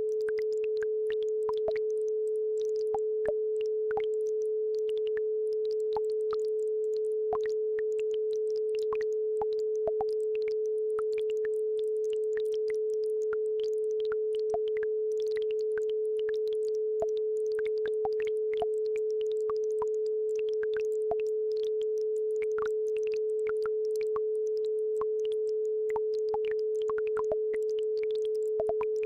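A steady pure tone at about 432 Hz, the base frequency of a brainwave-entrainment tone track, held without a break. Under it a faint babbling brook gives scattered little water plinks.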